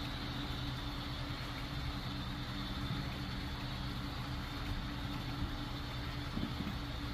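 HO scale model train (a California Zephyr) running, a steady low hum and rumble.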